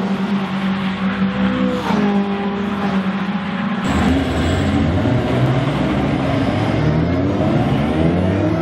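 Caterham Seven race car engines running steadily at idle. About four seconds in, this changes abruptly to several Caterham Sevens moving off, their engines revving up and down with overlapping notes.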